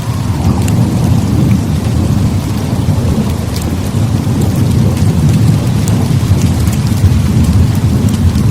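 Heavy rain falling steadily over a continuous low rumble of thunder, with scattered small ticks.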